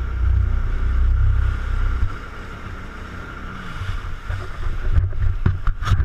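Jet ski running with a steady whine and heavy wind rumble on the microphone that eases off about two seconds in. A few sharp knocks come near the end.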